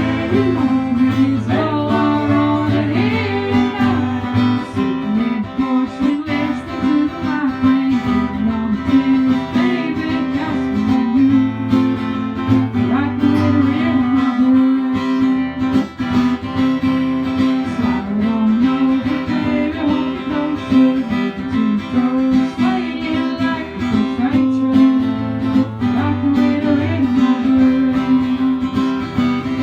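Acoustic guitar music, strummed, with a melody line gliding over it.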